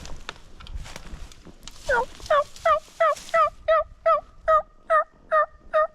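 A bird calling a run of about eleven short, yelping notes, each dropping in pitch, about two and a half a second, starting about two seconds in.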